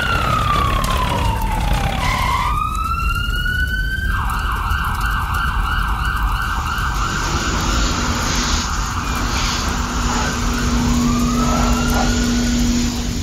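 Electronic emergency-vehicle siren wailing in slow falling and rising sweeps, then switching about four seconds in to a fast yelp that runs for several seconds, before slow wails return near the end, over a steady low rumble.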